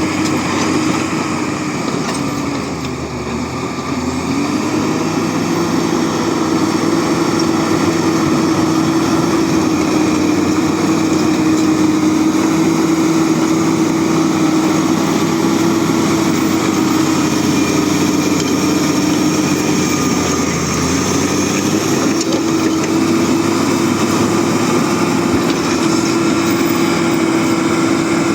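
Bulldozer's diesel engine running steadily, its pitch sagging and recovering twice, about three seconds in and again about twenty seconds in.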